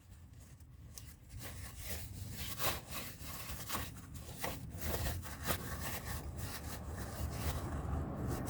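Irregular scraping and rubbing strokes, roughly one or two a second, over a low steady rumble.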